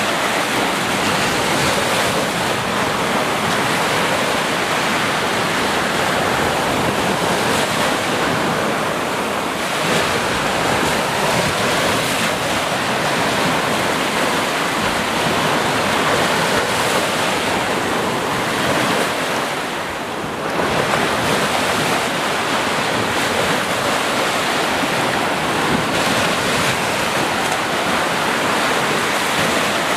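Ocean waves breaking and washing onto a shore in a continuous rushing roar, with a brief lull about two-thirds through before the next wave surges in.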